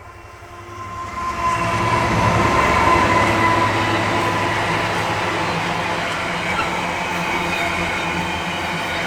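Class 60 diesel freight locomotive approaching and passing close by. The train grows loud over the first two seconds as the engine draws level, then the train keeps rolling past steadily.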